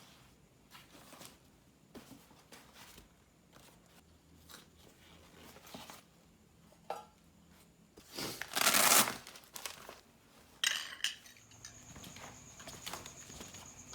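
Coffee gear being handled: small clinks of pots, cups and utensils and rustling packaging, with a louder crinkling rustle about eight seconds in and a shorter one a couple of seconds later.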